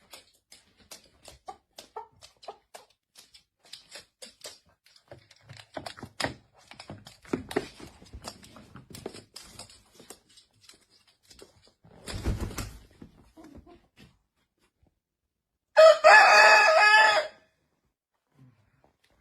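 A rooster crowing once, a loud call of about a second and a half with a wavering pitch, near the end. It is preceded by scattered light clicks and taps and a short rustling thump.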